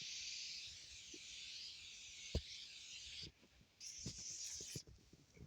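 Aerosol starting fluid hissing as it is sprayed into a cold Detroit inline-six diesel to help it crank. One long spray stops about three seconds in, and a second, shorter burst follows about a second later, with a light tap between them.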